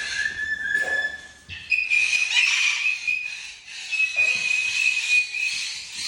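Parrots whistling: a long steady whistled note, then a higher one held for about four seconds, over a haze of other birds' calls.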